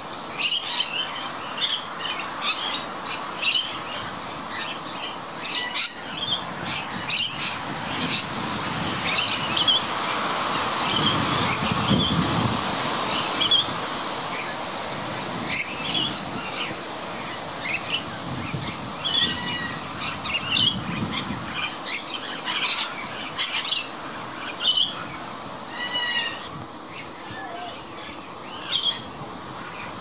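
Birds calling in an aviary: many short squawks and chirps scattered throughout, a few of them brief whistled notes, over a faint steady hum. A low rumble swells around the middle.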